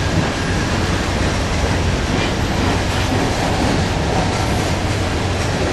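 Freight train tank cars rolling past close by: a steady noise of steel wheels running on the rails.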